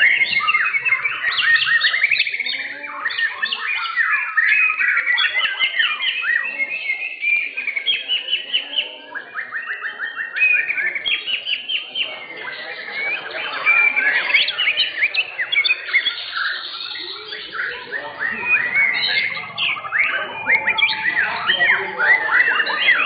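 White-rumped shamas (murai batu) singing: a dense, unbroken stream of rapid whistled phrases and trills that change constantly in pitch.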